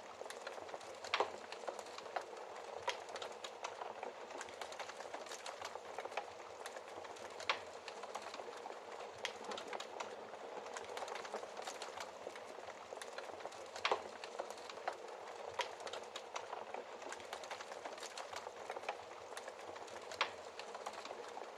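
Wood fire burning in a fireplace: a steady hiss with constant small crackles, and four louder pops spaced about six seconds apart.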